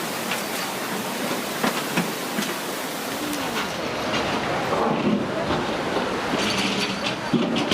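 River in flood rushing steadily, a continuous noisy wash of fast-moving water, with a few sharp knocks through it.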